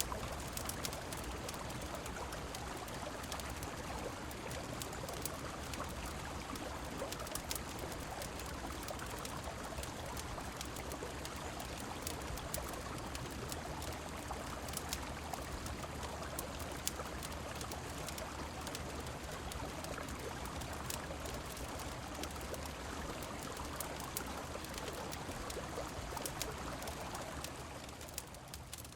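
Steady rushing of river water and rain, with sharp crackles and pops from a wood fire scattered throughout. The sound dips briefly near the end.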